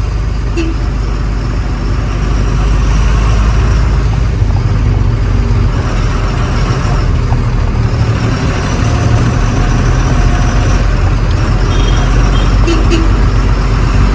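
Truck on the move: its diesel engine running steadily under a loud rumble of road noise.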